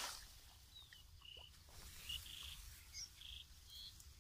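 Faint, short bird chirps and trills, about one a second, over a quiet background.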